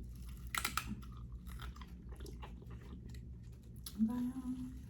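Close-up eating sounds of a seafood boil: wet chewing with sharp clicks and crunches, busiest about half a second in. Near the end comes a short hummed "mm".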